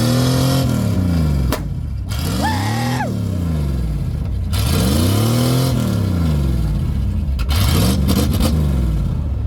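Truck engine revving hard again and again, its pitch climbing and falling in about four long sweeps, each lasting a second or two.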